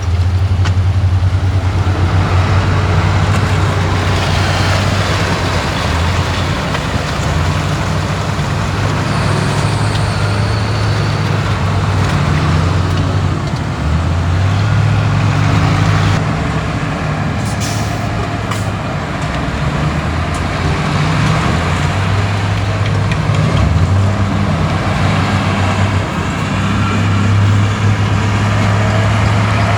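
Heavy diesel earthmoving machinery running under load, the low engine note rising and falling as it works, with a few short sharp clanks a little past halfway.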